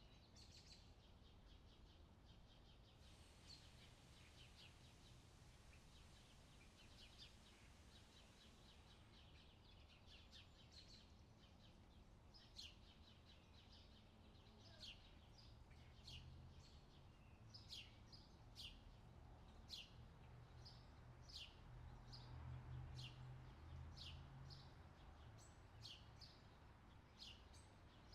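Summer outdoor ambience of birds chirping, quiet: a cluster of fast twittering early on, then one bird's short high chirps repeated about once a second, over a low steady rumble.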